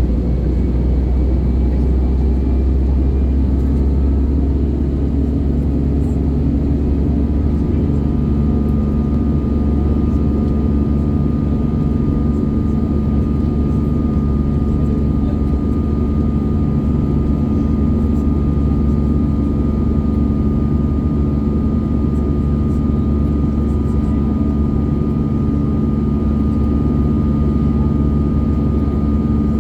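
Cabin noise of an Airbus A319 in flight, heard from inside the cabin: its jet engines and airflow make a steady, dense low drone with a few steady hum tones. About seven seconds in, a thin, higher steady whine joins it and holds.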